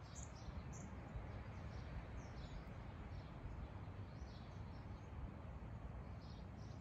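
Small birds chirping in short, scattered high notes, over a low steady rumble of background noise.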